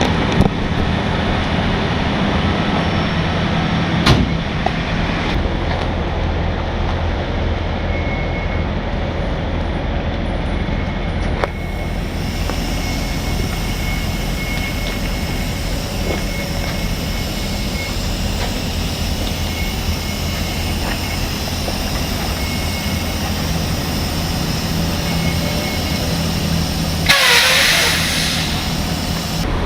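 Diesel truck engine idling steadily, with a couple of sharp knocks in the first few seconds and a burst of hissing air near the end.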